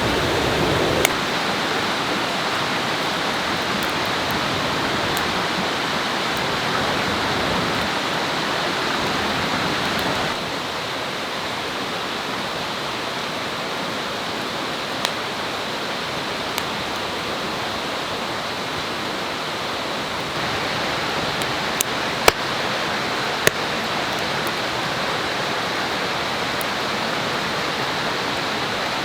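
Steady rushing noise of flowing water from a stream, with a few sharp clicks scattered through it. The level steps down slightly about ten seconds in and back up about twenty seconds in.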